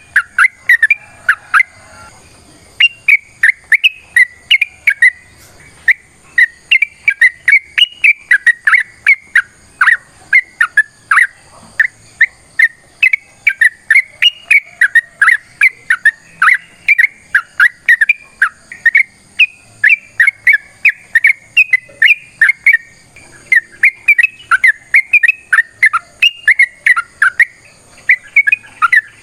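Yellow-vented bulbul (trucukan) singing a long, rapid run of loud whistled chattering notes, three or four a second, with brief breaks about two seconds in and again about three-quarters of the way through.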